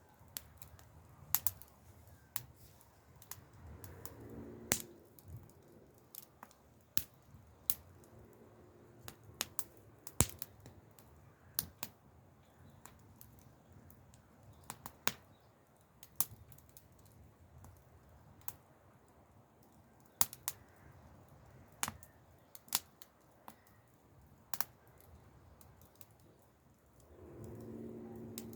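Campfire crackling: irregular sharp pops and snaps of burning wood, several a second, some louder than others.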